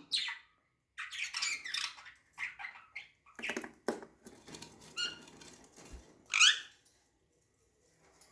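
Budgerigar chattering in short chirps and clicks, with one louder chirp about six and a half seconds in.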